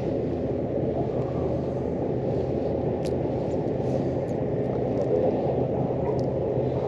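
A steady low engine drone with a rushing noise over it, unchanging throughout, and a few faint ticks about three and four seconds in.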